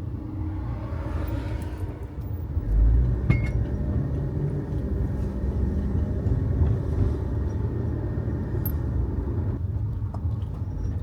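Low, steady road and engine rumble heard inside an SUV's cabin while driving, with a short thump about three seconds in.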